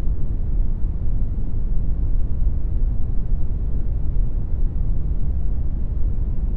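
Synthetic brown noise: a steady, deep rushing hiss with most of its weight in the lows, fading off toward the highs, without change.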